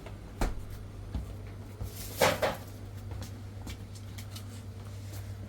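Indoor handling noises over a steady low hum: a sharp knock about half a second in, a fainter one a second in, and a louder, longer knock-and-rattle about two seconds in.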